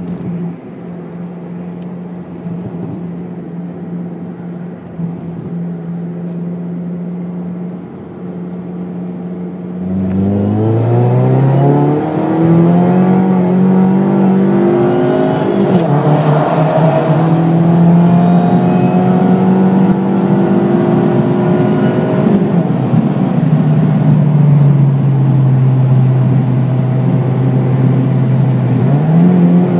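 Supercharged 2.4-litre four-cylinder engine of a Pontiac Sunfire, heard from inside the cabin. It runs steadily at first, then about ten seconds in it gets louder and pulls hard under boost. Its pitch climbs and drops back a few times, as at gear changes.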